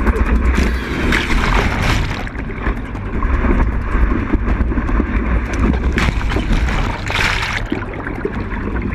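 Water rushing and splashing past a surfboard being towed behind a boat, heard from a GoPro mounted on the board, with a steady low rumble of wind on the microphone. Louder hissing surges of spray come about one to two seconds in and again around six to seven seconds.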